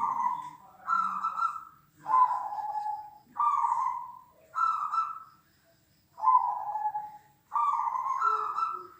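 Perkutut (zebra dove) cooing: a run of about seven short, pitched coo phrases, each under a second, with brief pauses between them.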